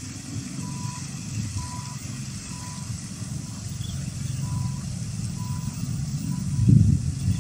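Diesel locomotive of an approaching passenger train, a steady low rumble that swells to its loudest near the end. A faint electronic beep repeats about once a second.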